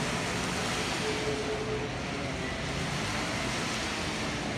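Pesa multiple-unit train pulling away from the stop, a steady distant engine and rolling noise with faint held tones that eases slightly about two seconds in.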